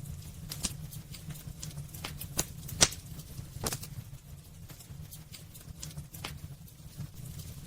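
Wood fire burning in a fireplace, crackling with irregular sharp pops over a steady low rumble of the flames. The loudest pops come just under three seconds in.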